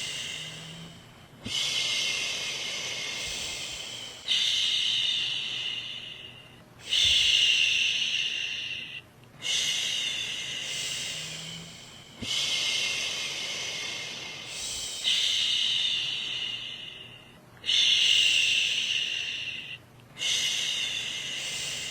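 A woman's voice shushing ('shhh') in long repeated strokes, about one every two and a half seconds, each starting strongly and trailing off, to lull a baby to sleep.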